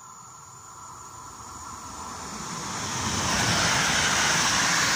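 Electric multiple unit passing the station platform: the rumble of wheels on rail and the rush of the train grow steadily louder as it approaches, and are loudest from about three seconds in as it runs past.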